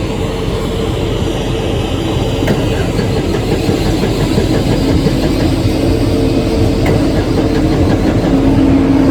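An engine runs steadily with a low drone. The noise slowly grows louder, and a humming tone strengthens over the last couple of seconds.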